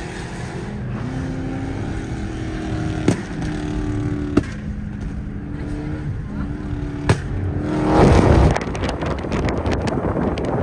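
Car engine running steadily, with a few sharp clicks and a loud rush of noise about eight seconds in.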